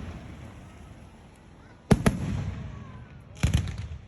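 Aerial fireworks shells bursting: a sharp double bang about two seconds in, then a quick cluster of crackling bangs about a second and a half later, each trailing off in a low rumble.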